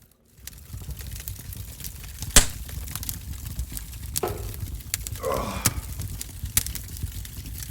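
Wood fire crackling with scattered sharp pops over a low rumble, the loudest pop about two and a half seconds in. A brief wavering pitched sound a little after five seconds.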